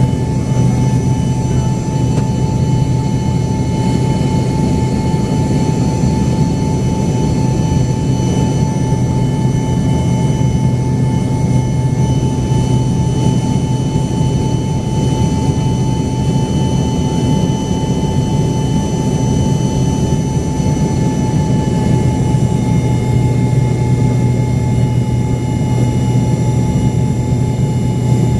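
Cabin noise of an Embraer ERJ-135 with its rear-mounted turbofan engines running steadily. A constant low hum carries several fixed whining tones above it.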